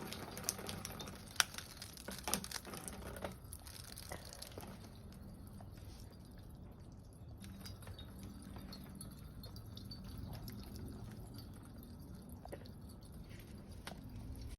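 Rainwater dripping and splashing down a metal rain chain into a plumbing-pipe downspout: irregular drips and taps over a faint, steady trickle, with a handful of sharper taps in the first few seconds.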